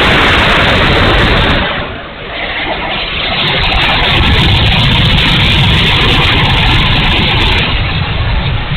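70mm electric ducted fan of an E-flite F-16 RC jet in flight: a loud rushing whoosh that dips about two seconds in, then builds back up and holds.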